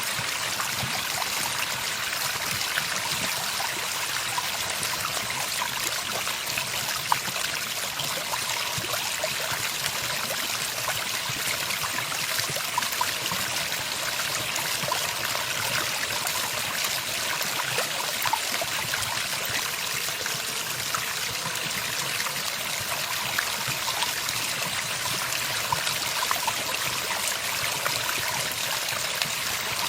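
Running water: a steady, unbroken stream trickling and splashing.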